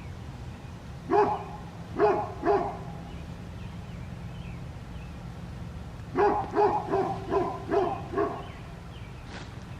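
A dog barking: three barks in the first few seconds, then a quick run of about seven barks past the middle, over a steady low rumble.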